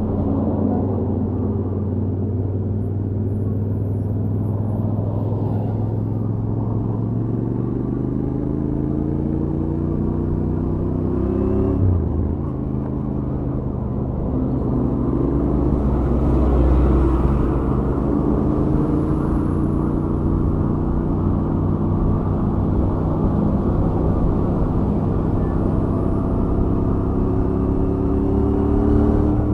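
Royal Enfield Interceptor 650 parallel-twin engine on its stock exhaust, pulling at highway speed. Its note climbs slowly, falls back about twelve seconds in, then climbs steadily again, under the rush of riding wind.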